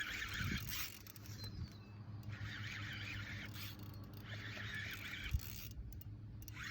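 Fishing reel drag buzzing in repeated spells of about a second, the line being pulled off by a hooked fish, likely a shark.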